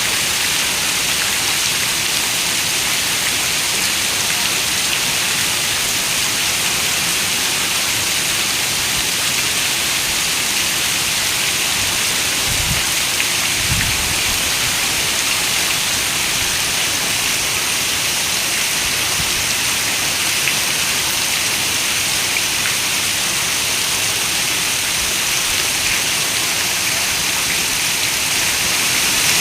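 Steady rain falling, an even hiss without a break, with a brief low rumble about halfway through.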